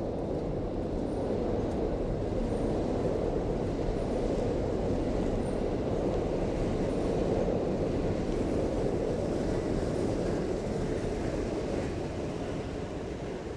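Train passing: a steady low rumble that builds up, holds, and fades away near the end.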